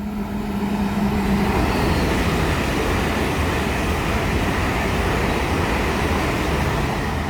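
A pair of coupled Class 805 trains passing through the station: a steady rush of wheel and air noise that builds over the first second and then holds, with a low hum that fades out about a second and a half in.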